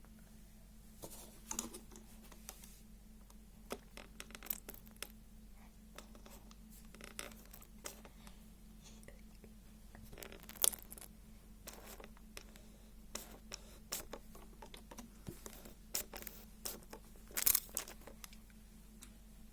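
Scattered light rustling and scratching with small clicks, over a faint steady hum; two brief louder scratchy bursts, one about halfway through and one near the end.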